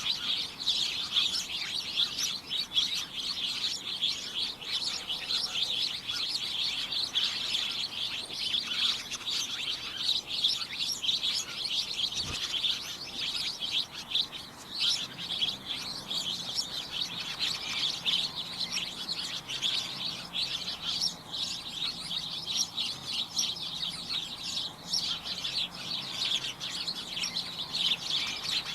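Many small birds chirping at once, a dense, unbroken chatter of short high chirps overlapping one another.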